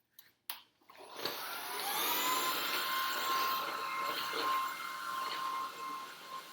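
Shark cordless stick vacuum switched on after a couple of clicks, its motor whining up in pitch over about a second and then running with a steady high whine.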